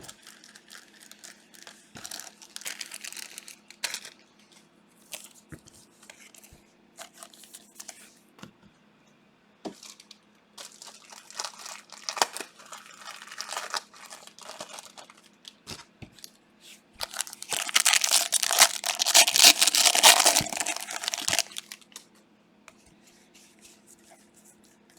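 Trading card pack wrappers being torn open and crinkled, in several bouts, the longest and loudest about two-thirds of the way in.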